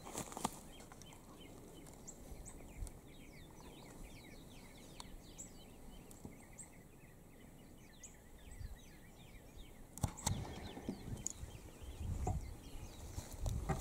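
Small birds chirping, many quick falling notes overlapping. About ten seconds in come a couple of sharp clicks, followed by a few seconds of low knocks and rumble of handling noise.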